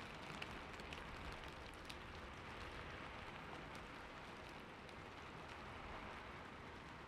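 Steady rain falling, a soft even hiss with scattered drops ticking on a surface, a few louder drips in the first two seconds.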